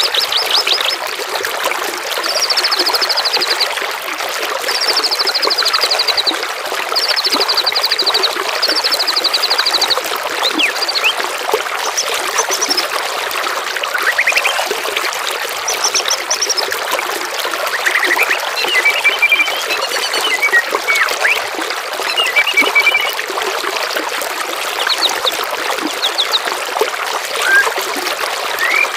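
Running water trickling steadily, with songbirds singing over it. First comes a string of fast, high trills repeated several times, then scattered whistles and chirps.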